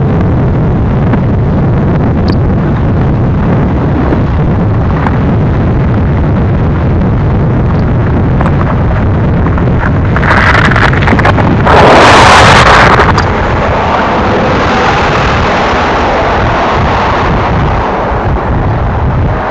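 Manifest freight train's boxcars rolling past with a loud, steady low rumble. A louder rush of noise lasts a few seconds around the middle.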